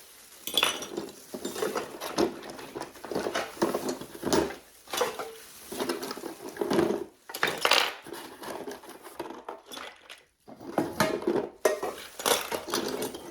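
Old metal tins and small metal trinkets being handled and set down, clinking and knocking against each other at irregular intervals, with a brief pause about ten seconds in.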